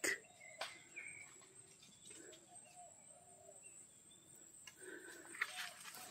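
Faint bird calls, including a short run of low arching notes about two to three seconds in, with a few soft rustles of footsteps in undergrowth.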